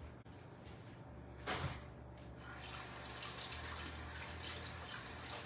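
A short knock about one and a half seconds in, then a kitchen sink tap running steadily.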